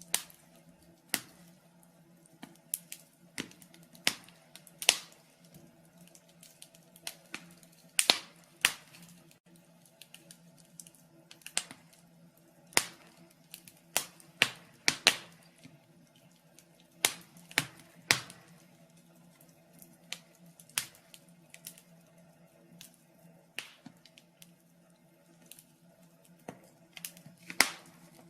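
Wood fire in a fireplace crackling: irregular sharp snaps and pops, about one or two a second and varying in loudness, over a faint steady low hum.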